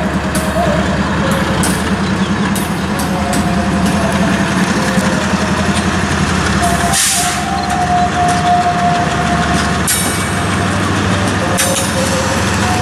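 Freight train rolling past: a steady rumble with sharp wheel clicks and a wavering high wheel squeal, and a brief hiss about seven seconds in.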